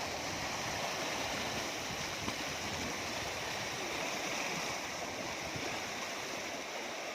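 Water of a waterfall rushing steadily over rock.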